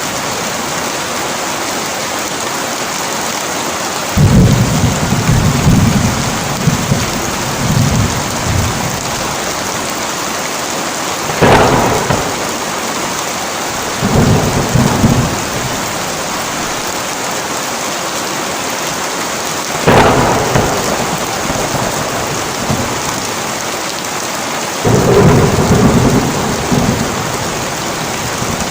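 Heavy rain falling steadily in a thunderstorm, with thunder rolling several times. Sharp cracks come about a third and two-thirds of the way through, followed by low rumbles.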